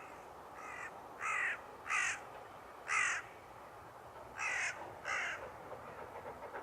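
Crow cawing: about six short, harsh caws at uneven intervals, the first one faint, over a faint steady background hiss.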